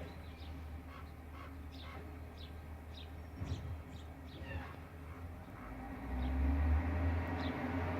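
Small birds chirping: a string of short, quick, falling chirps, thinning out after about five seconds. A low rumbling noise swells about six seconds in.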